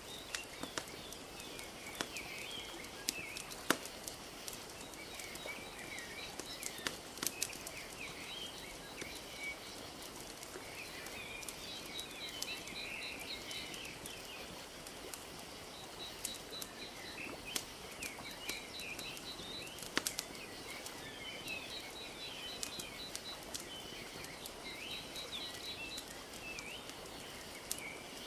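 A wood fire crackling with scattered sharp pops over a steady soft wash of lake water. Small birds chirp throughout, with short rapid trills now and then.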